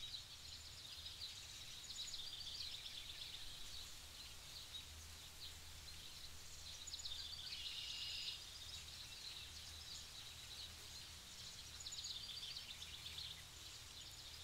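Faint songbirds chirping and trilling continuously, over a low steady rumble.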